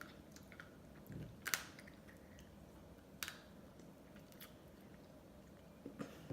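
Faint mouth sounds of eating ice cream: soft chewing and scattered wet clicks, the sharpest about a second and a half in and another a little after three seconds.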